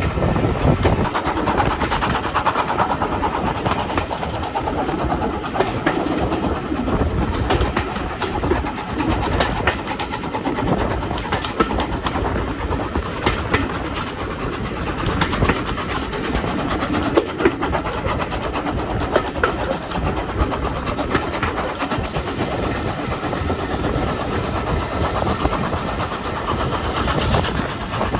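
A train running on the track: a steady rumble with many irregular clicks and knocks from the wheels and rails.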